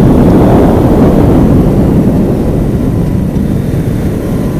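Motorcycle on the move: a loud, steady rush of wind noise on the microphone over the engine, easing off slowly, with a faint steady whine appearing about halfway through.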